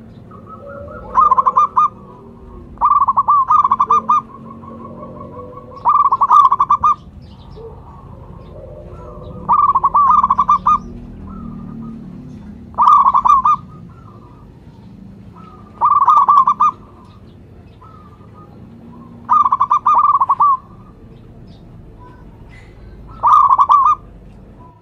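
Zebra dove (perkutut) cooing: a loud, rapidly pulsed coo phrase about a second long, repeated eight times at intervals of three to four seconds.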